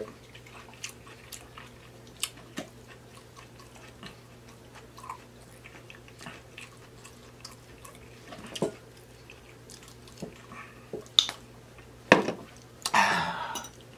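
Close-miked chewing with soft wet mouth clicks and smacks, scattered irregularly over a low steady room hum, with a louder click and a short noisy burst near the end.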